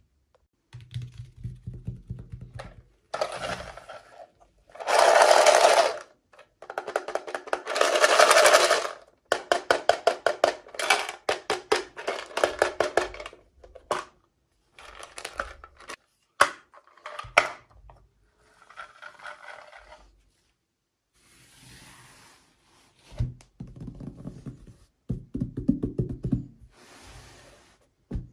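Toy doll packaging being handled and opened: plastic and cardboard rustling and tearing in irregular bursts, two long crinkling tears, quick runs of clicks and scratches, and dull knocks from handling.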